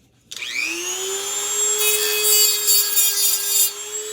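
Small Dremel-type rotary tool starting up about a third of a second in, its whine rising and then holding steady. About two seconds in, its cutting wheel grinds against a metal fan part for about two seconds, a test of whether the part is aluminum.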